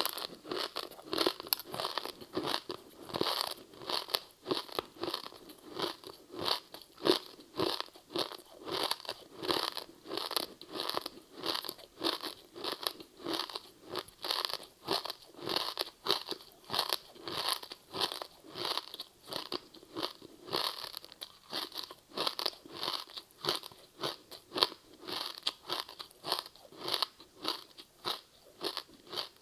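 Close-up chewing of a crispy seaweed-wrapped rice snack: a steady run of crisp crunches, several a second, as the brittle seaweed coating breaks between the teeth.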